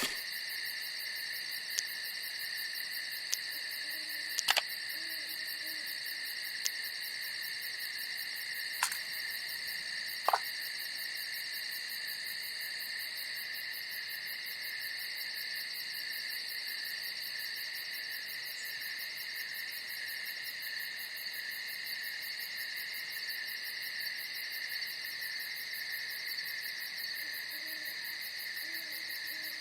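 Steady night chorus of crickets or other singing insects, a continuous shrill trill, with a few sharp clicks about 4, 9 and 10 seconds in. Faint low hoots come twice, a few seconds in and near the end.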